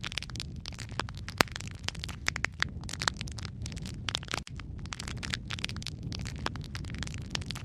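Wood fire crackling in a fireplace: dense, irregular pops and snaps over a low, steady rumble, with a split-second gap about halfway through.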